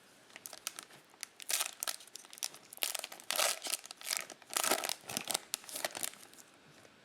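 A 2020 Mosaic Football trading-card pack wrapper being torn open and crinkled by hand, in a run of irregular crackling rustles.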